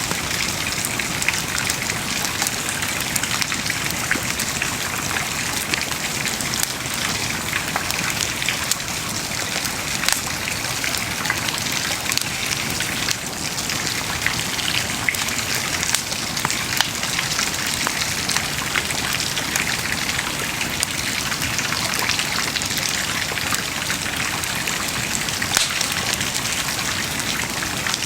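Wood bonfire burning steadily, with a continuous hiss and many small crackles and pops from the burning wood.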